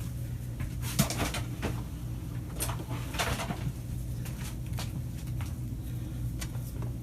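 Scattered small clicks and scrapes of insulation being stripped from an extension cord's wires and the wires being handled, over a steady low hum.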